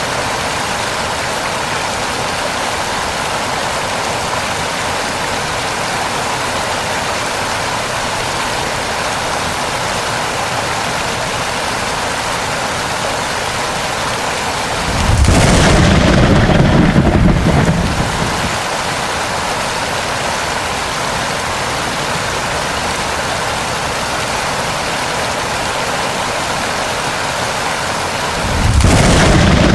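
Steady rain, with two loud rolls of thunder: one about halfway through lasting about three seconds, another starting near the end.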